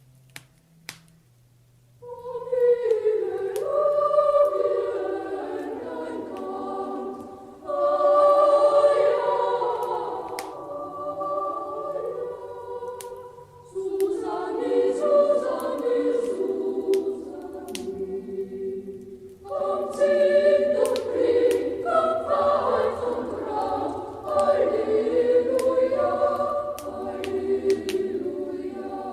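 A choir singing a Christmas song in long phrases, starting about two seconds in after a couple of sharp clicks. The singing breaks briefly between phrases, and faint sharp clicks are scattered throughout, as from a crackling wood fire.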